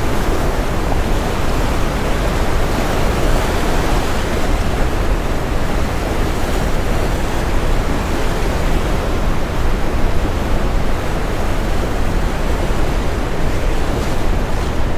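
Steady brown noise, a deep, even hiss weighted to the low end, blended with ocean waves breaking on a shore. The level swells only slightly.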